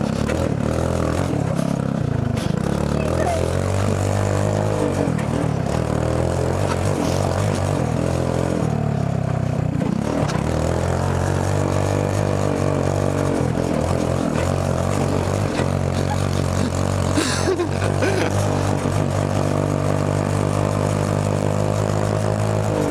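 Small go-kart engine running under way, its pitch rising and falling repeatedly as the throttle is opened and eased, with rattling and scraping from the kart, and a brief sharp noise about two-thirds of the way through.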